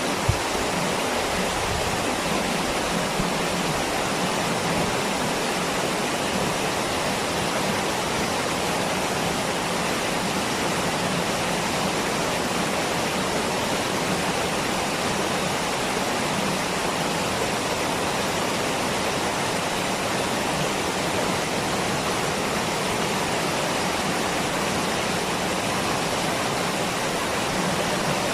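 Waterfall: falling water rushing in a steady, even wash of noise that does not change.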